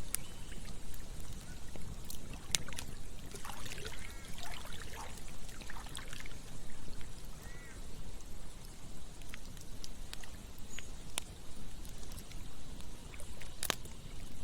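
Campfire crackling with a few sharp pops, the loudest near the end, over the steady rush and gurgle of a flowing stream.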